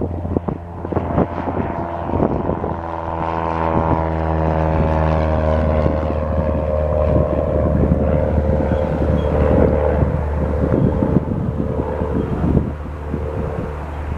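Cessna 172R Skyhawk's four-cylinder Lycoming engine and propeller at takeoff power going past, the engine note sliding down in pitch as it passes. Wind gusts on the microphone, mostly in the first couple of seconds.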